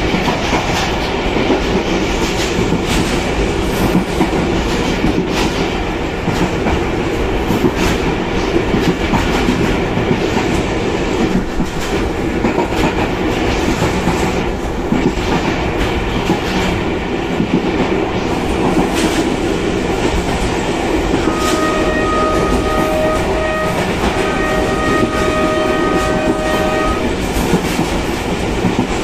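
A diesel-hauled passenger train running at speed, heard from an open coach window: a steady rush of wheel and wind noise with the clatter of wheels over rail joints. About two-thirds of the way in, the locomotive's horn sounds for around five seconds, broken once, with a second note joining in its later part.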